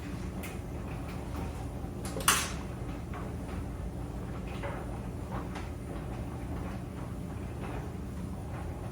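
Clothes dryer running with a steady low hum, with scattered light clicks and one louder knock a little over two seconds in.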